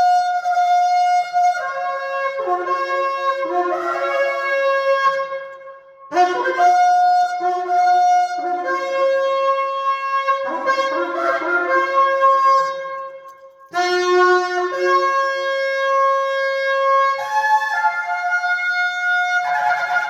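A 39-inch shofar blown in three long blasts of about seven seconds each. Within each blast the horn jumps between several notes.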